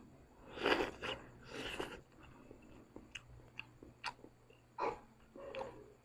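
A person eating Korean noodles close to the microphone: biting and chewing, with two louder noisy mouthfuls early and a scatter of small wet clicks after.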